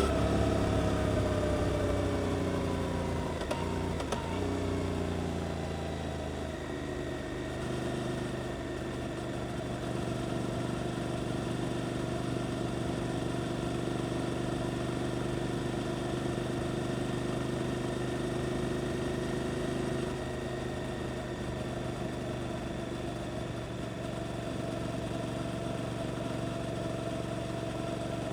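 Suzuki GSX-8S's 776 cc parallel-twin engine through an Arrows aftermarket exhaust: the engine note falls over the first few seconds as the revs drop off, then holds a steady note.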